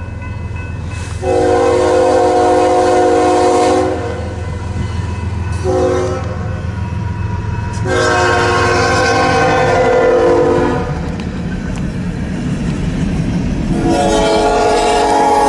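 Freight locomotive's air horn on an empty coal train sounding a chord of several tones: a long blast, a short one, then two more long blasts. A steady low rumble of the passing train's diesel engines and wheels runs underneath.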